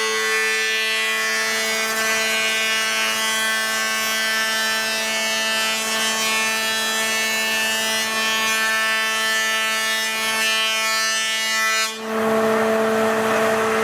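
Power planer cutting a mahogany board: a loud, even cutting noise over the motor's steady hum. The cut ends about twelve seconds in, leaving the machine running free.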